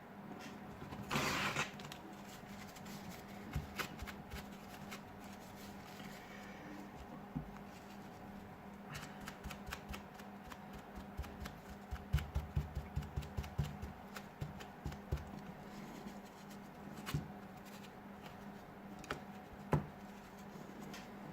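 Hands and small tools handling a smartphone on a work surface: a brief scrape about a second in, then scattered light clicks and taps, with a quick run of knocks in the middle, over a steady low hum.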